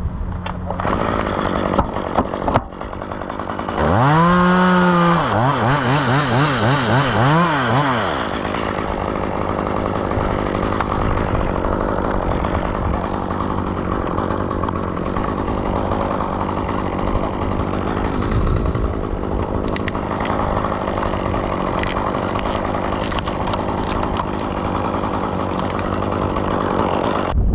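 Chainsaw engine revved up sharply about four seconds in, its throttle blipped up and down for a few seconds. A steady rushing noise follows.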